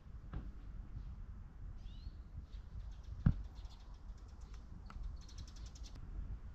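Birds chirping over a low outdoor rumble, with a few light clicks and one sharp knock a little past three seconds in.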